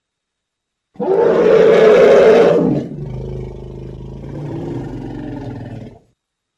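Elephant roaring: a loud, rough roar starting about a second in, trailing into a lower growling rumble for about three seconds that cuts off near the end.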